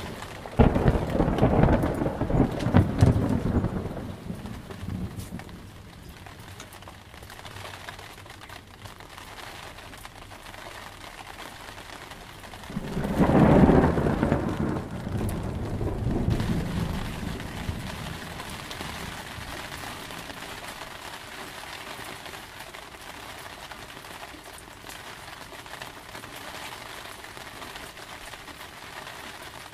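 Thunderstorm: steady rain with two peals of thunder, the first breaking about half a second in and rumbling for several seconds, the second rolling in about thirteen seconds in and fading away slowly.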